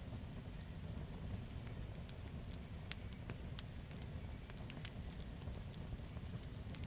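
Campfire burning, with frequent sharp crackles and pops over a low, steady rumble of the flames.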